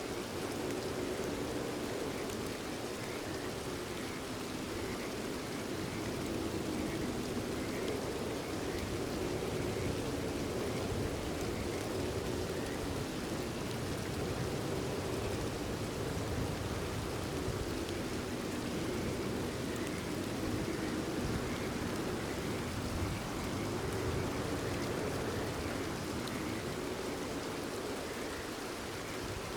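Steady rain falling, with frogs calling faintly in short repeated notes behind it.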